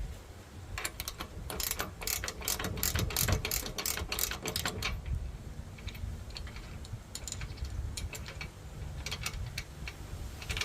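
Hand tool working on a metal mount: a quick run of sharp clicks, about four a second, for some four seconds, then a few scattered clicks.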